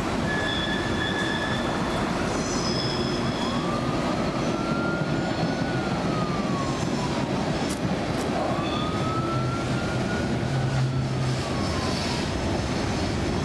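Freight train cars (tank cars and boxcars) rolling by on a curve: a steady rumble, with short high-pitched wheel squeals that come and go.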